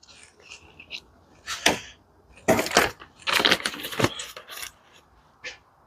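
Parts and packaging being handled: a run of short rustles, clicks and clatters, busiest and loudest from about one and a half to four seconds in.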